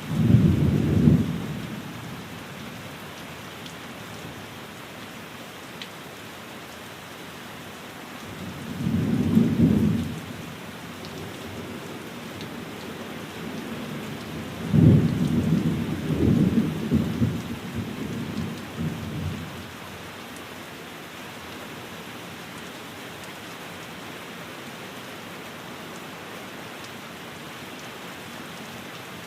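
Steady rain falling on a window, with three low rolls of thunder: one right at the start, one about nine seconds in, and a longer, rumbling one from about fifteen to nineteen seconds in.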